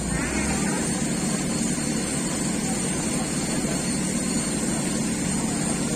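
Crane's engine running steadily, a low, even drone with no change in pace.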